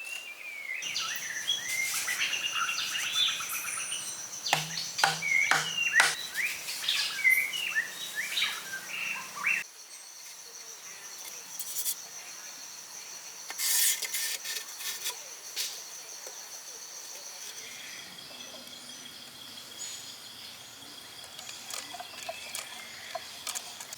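Birds chirping and calling over a steady high drone of insects. The birdsong breaks off abruptly about ten seconds in, leaving the insect drone and a few faint chirps.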